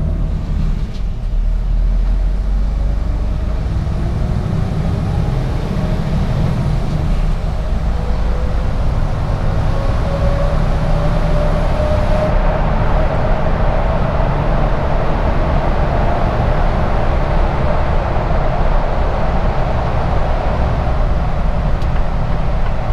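Mercedes-Benz Actros truck driving, heard from inside the cab: a steady low engine and road rumble, with a whine that rises slowly in pitch through the middle as the truck gathers speed.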